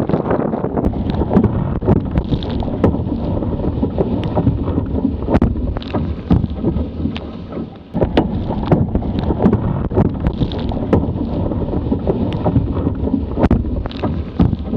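Strong wind buffeting the microphone of a Musto Skiff sailing dinghy planing at speed, a loud steady rumble with frequent sharp knocks. The noise eases briefly about halfway through, then comes back abruptly.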